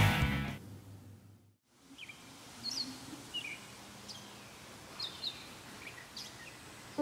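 Rock music fading out, then a moment of silence, followed by faint outdoor background noise with several short bird chirps.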